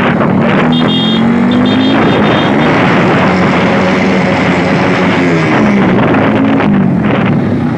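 Motorcycle engine running loud, its pitch rising and falling as the revs change.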